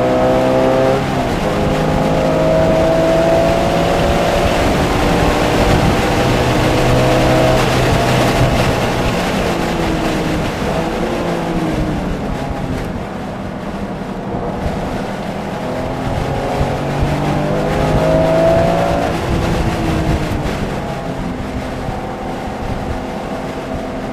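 Porsche engine at speed on a race track, rising in pitch as it accelerates and falling back at each gear change. Around the middle it eases off and the pitch falls away, as when slowing for a corner.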